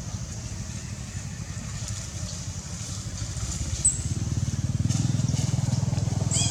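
A small engine running with a rapid, even low putter that grows louder about four seconds in. A brief high squeak comes near the end.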